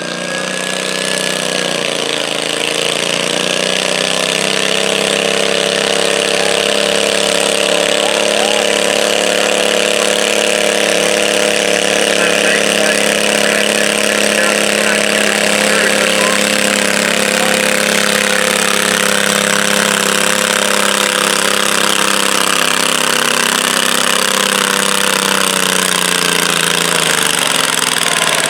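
Stock garden tractor engine under full load during a pull: it revs up over the first few seconds, holds a steady high pitch for over twenty seconds, then drops off near the end as the run finishes.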